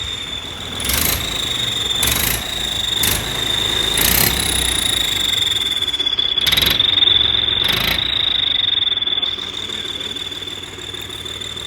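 Mahindra tractor engine running with a whistle fitted to its exhaust silencer, giving a steady high-pitched whistle over the engine's low rumble. Several short sharp bursts cut in during the first eight seconds, most of them about a second apart.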